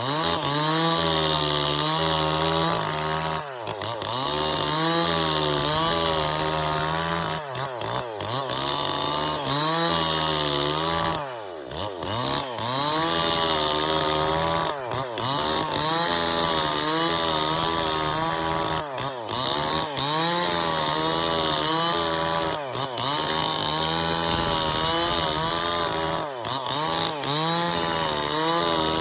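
Stihl MS440 two-stroke chainsaw running at high revs while cutting through a bayur log. Its pitch wavers under load and sags briefly every few seconds before picking up again.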